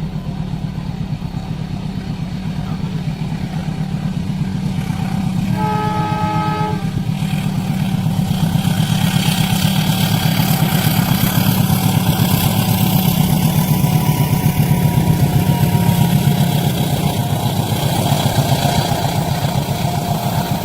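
Train approaching a level crossing: the locomotive's horn sounds one chord-like blast of about a second and a half, about six seconds in. After it, the diesel engine and the rushing rail noise grow louder over a steady, throbbing engine rumble, peaking a few seconds before the end.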